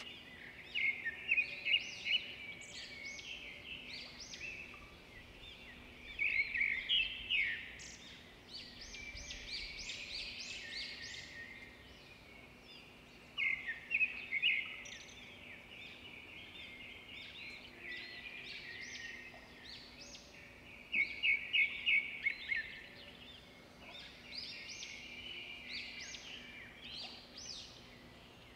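Birdsong: songbirds chirping and trilling in quick high notes, with louder spells every several seconds.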